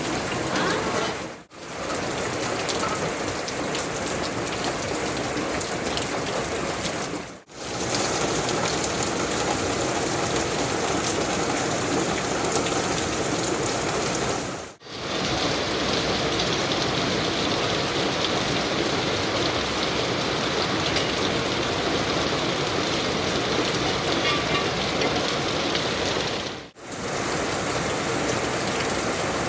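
Steady rain falling, an even hiss, briefly dipping away four times as the sound cuts between takes.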